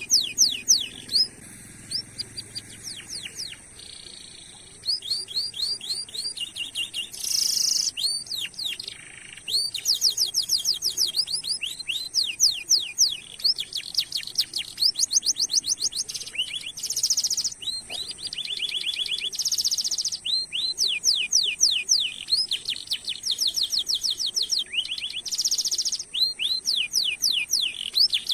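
Domestic canary singing: fast runs of repeated sweeping chirps and rolling trills, in bursts separated by short pauses.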